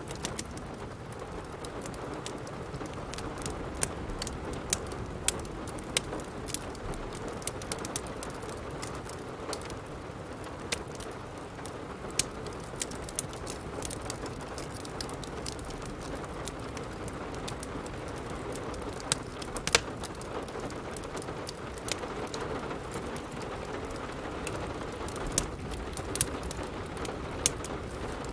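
Steady rain with the irregular sharp crackles and pops of a wood fire burning in a fireplace.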